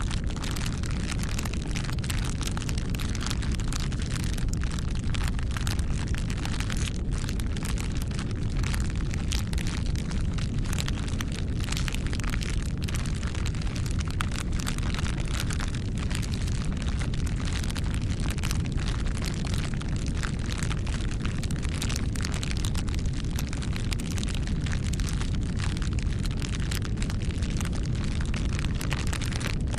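Bonfire burning: a steady low rush of flame under dense, irregular crackling and popping.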